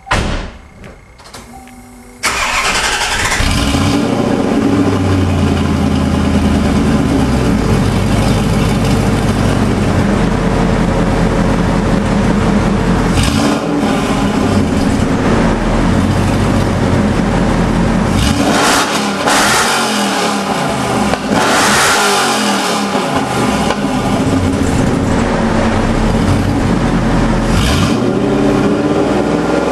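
1990 Corvette ZR-1's LT5 32-valve V8, breathing through Stainless Works long-tube headers and a Corsa exhaust, catching about two seconds in and settling from a fast idle. It is then revved in short throttle blips several times.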